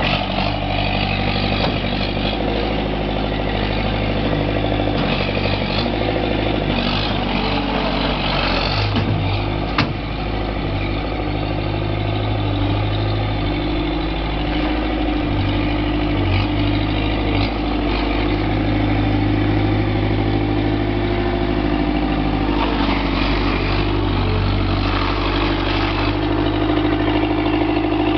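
Kubota V1902 four-cylinder diesel of a New Holland L553 skid steer running steadily, with one sharp click about ten seconds in.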